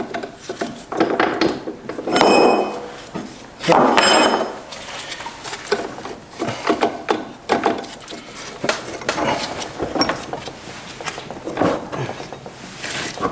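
Hammer and pin punch knocking roll pins out of a Subaru six-speed transmission's shift mechanism, with metallic clinks and knocks. Two louder blows, about two and four seconds in, ring briefly.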